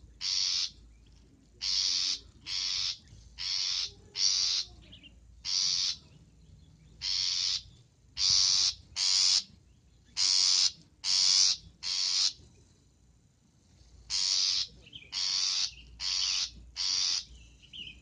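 Long-tailed shrike giving harsh, rasping calls, each about half a second long, in runs of two to four with short pauses between runs.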